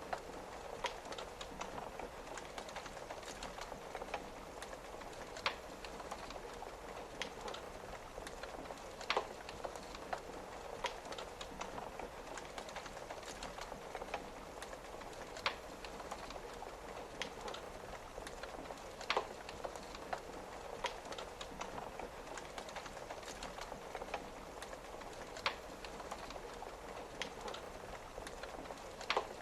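Wood fire crackling with irregular sharp pops, a louder one every few seconds, over a steady patter of rain.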